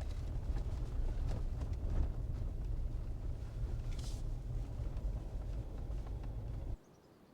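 Jeep driving on a snowy road: a steady low rumble of engine and tyres, with scattered light clicks and a brief hiss about four seconds in. The sound cuts off abruptly near the end.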